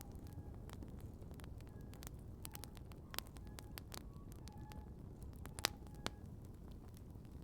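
Outdoor wood campfire crackling, with frequent sharp pops and snaps over a steady low rumble. The loudest pops come a little after three seconds in and twice more near the end.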